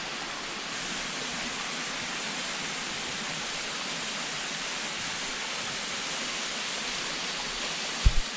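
Steady rushing of falling water from a waterfall. Near the end there are a couple of brief low thumps.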